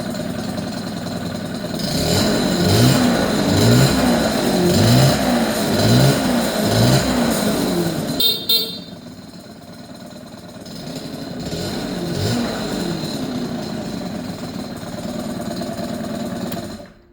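1979 Honda Caren AB04 scooter engine being free-revved: about five quick throttle blips roughly a second apart, a brief sharp crackle, a quieter spell, two more blips, then settling back to a steady idle before cutting off abruptly at the very end.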